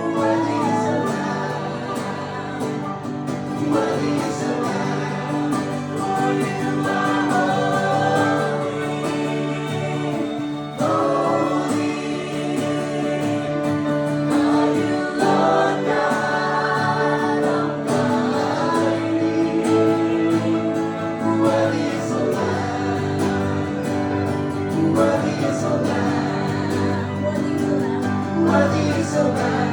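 Live acoustic worship music: voices singing a slow song over acoustic guitar accompaniment.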